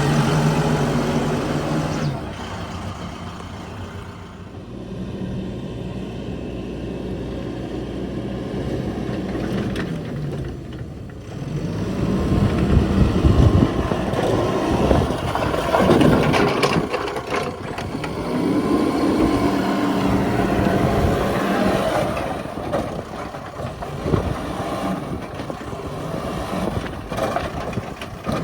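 Heavy diesel engine of a backhoe loader working, revving up and down under load. It is louder and higher-revving through the middle, with a few knocks near the end.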